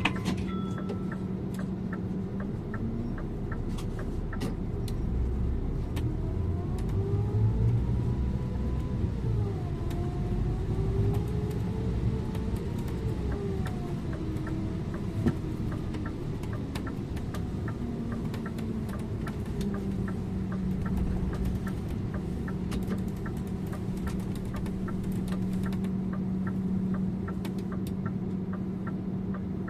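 Scania InterLink bus heard from the driver's seat: the diesel engine and drivetrain pull away with the pitch rising and falling through the gears, then settle to a steady tone over road rumble. A fast regular ticking sounds for the first several seconds.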